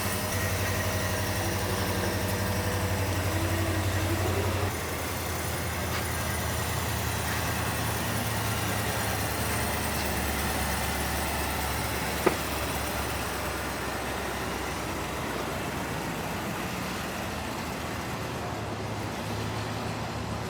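A vehicle engine running steadily at idle, a low hum, with one sharp click about twelve seconds in.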